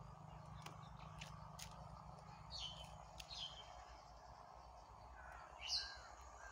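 A small bird chirping a few times over faint outdoor hush, each chirp brief and falling in pitch, the loudest near the end.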